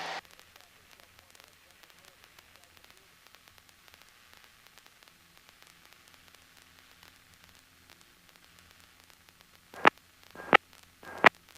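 Faint steady hiss of an aircraft intercom and radio audio feed. From about ten seconds in come three sharp static pops or clicks.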